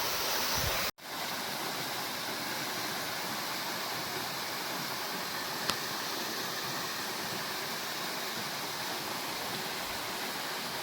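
Steady rush of a waterfall, cut off for an instant about a second in, with one faint click near the middle.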